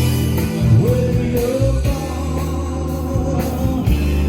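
Live music: a male singer performing a song with band backing, sung notes held and sliding up over a steady bass line.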